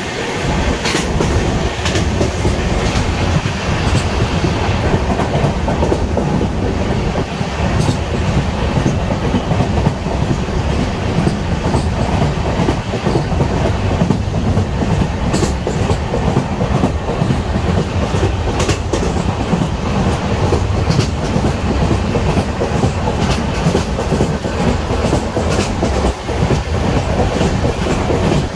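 Express passenger train running steadily at speed, heard from aboard: a constant low rumble with the wheels clattering over rail joints.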